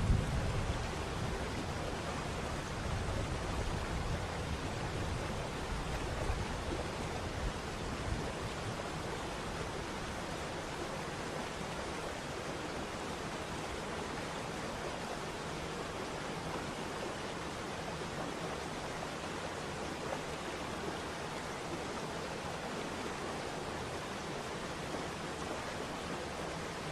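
Waterfall: falling water rushing in a steady, unbroken hiss, with a deeper rumble underneath during the first several seconds that fades out after about eight seconds.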